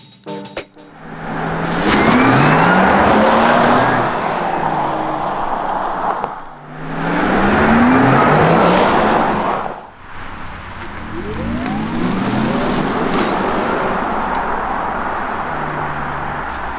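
Porsche Taycan 4S electric drivetrain accelerating hard: rising electric-motor whine over heavy tyre and wind noise, in three separate pulls.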